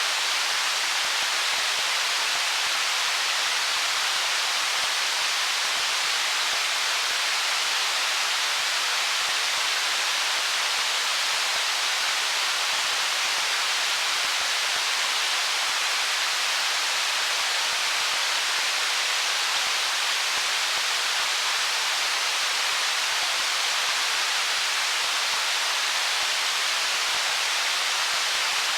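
Water of a stream flowing over stones: a steady, even rush with no single splashes or drips standing out.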